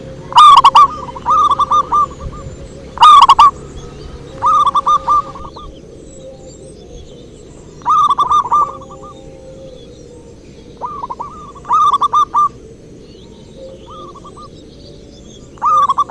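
Zebra dove (perkutut) cooing: repeated phrases of quick short notes, about seven phrases with pauses of one to three seconds between them. The loudest notes are close and strong enough to distort.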